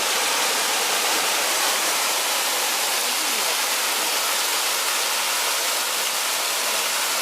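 Water of the Kobalar-Su pouring down a waterfall, a steady rushing hiss.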